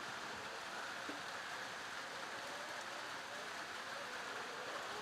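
Steady rain falling, a soft, even hiss with no distinct drops or events.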